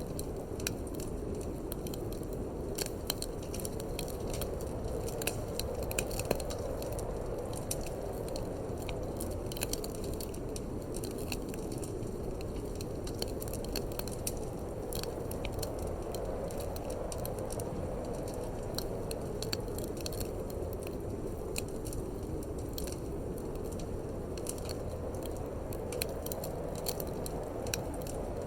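Wood fire crackling in a fireplace, with frequent irregular sharp snaps, over a steady low rush of wind that slowly swells and eases.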